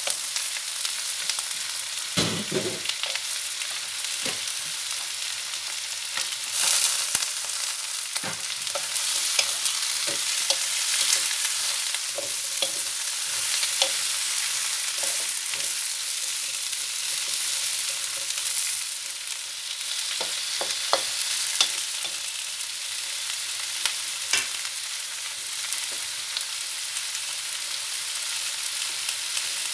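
Whole head-on shrimp sizzling in hot oil with onions and garlic in a steel wok, stirred with a wooden spoon that scrapes and clicks against the pan. A dull thump about two seconds in.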